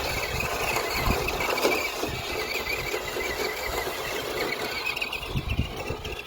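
Radio-controlled rally car driving, its 540 electric motor and gears whining high over rumbling tyre and ground noise.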